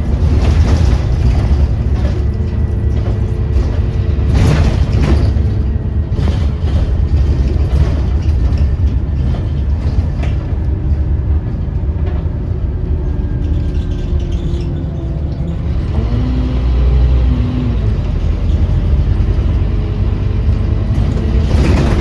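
Scania Omnicity single-deck bus under way, heard from inside the saloon: a steady low engine and road rumble with several sharp knocks and rattles from the body.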